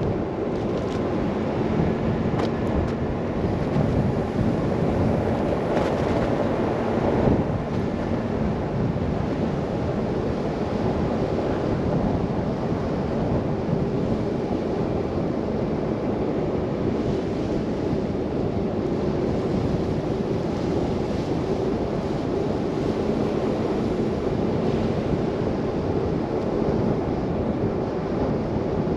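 Steady rushing noise of a car driving through a snow blizzard: wind and tyre noise with a faint engine hum underneath. A few faint clicks come in the first several seconds.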